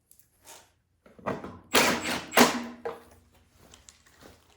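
Plastic belt cover being wiggled and knocked into place on a snowblower: a cluster of knocks and rattles, the two loudest about two seconds in, the second leaving a short ring.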